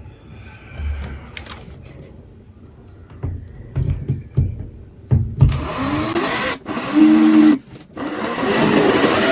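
Light knocks and thumps of parts being handled, then about five seconds in an electric power tool starts and runs loud in three bursts with two short breaks.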